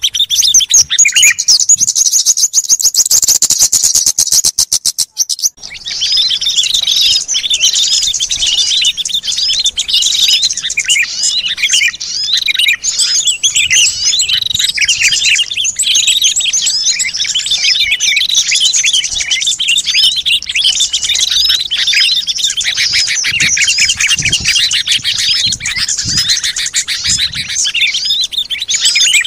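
Bird-lure recording of many small songbirds chirping and chattering together in a dense, busy chorus. It opens with a fast, even trill that breaks off briefly about five seconds in, and then turns to steady overlapping calls.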